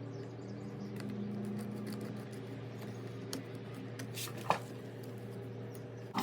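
A few sharp clicks and taps of small parts and tools being handled while the trimmer is reassembled, the strongest about four and a half seconds in, over a steady low hum.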